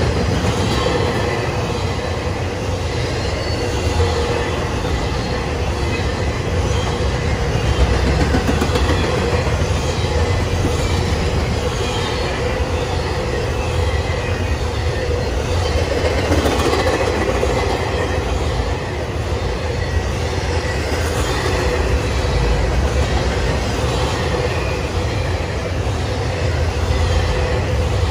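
Norfolk Southern intermodal freight train's container and trailer cars rolling past close by: a steady, unbroken rumble of steel wheels on the rails, with a steady tone running above it.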